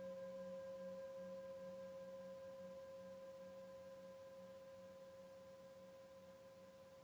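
Singing bowl ringing on after a strike, one steady tone with fainter higher overtones, slowly fading. Its lower tone wavers in a slow, even pulse.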